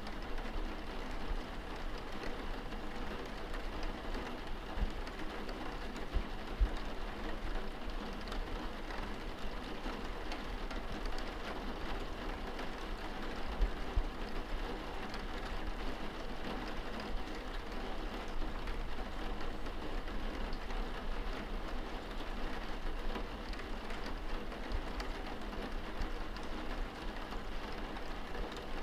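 Steady rain pattering on a window pane, recorded from indoors. A couple of brief low thuds come about a third and halfway through.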